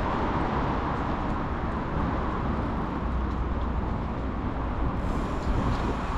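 Steady rushing wind noise on the microphone with a strong low rumble, as when moving along a road. The hiss grows brighter about five seconds in.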